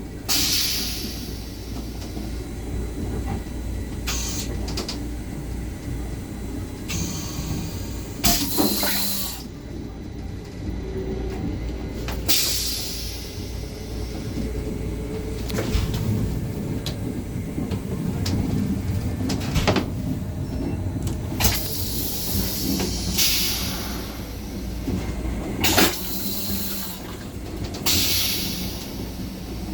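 Low steady rumble of an M7 electric railcar running along, heard inside its small restroom, with several short bursts of hiss about a second long coming and going.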